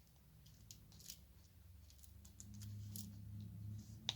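Faint light clicks and ticks of a diamond-painting drill pen picking up drills and pressing them onto the canvas, with a sharper click near the end. A low hum comes in about halfway.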